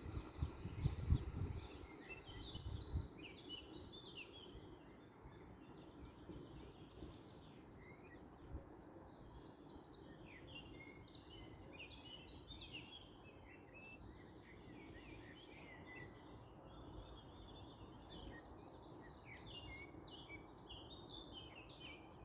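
Faint birdsong: many short chirps repeating over a quiet background. In the first few seconds a low rumble and a few thumps die away as the SBB double-deck train leaves.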